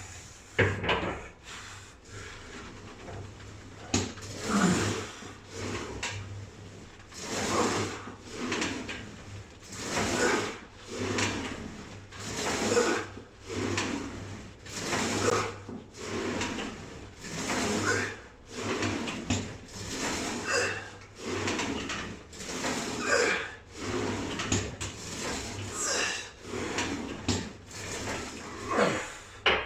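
Leg press machine being worked through a set of reps: the loaded sled slides and knocks along its rods in a steady rhythm, about one rep every two and a half seconds, with heavy effortful breathing on each push.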